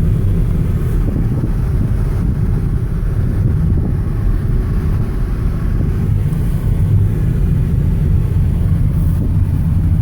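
Steady low rumble of a car on the move, with wind noise.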